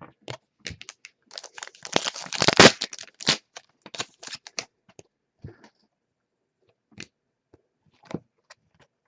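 Trading cards and a pack wrapper being handled: a dense run of crinkling, tearing and clicking from about a second in to nearly five seconds, then a few scattered light clicks.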